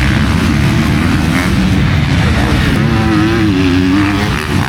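Motocross bike engines racing past, their pitch rising and falling as the riders work the throttle through the bumps.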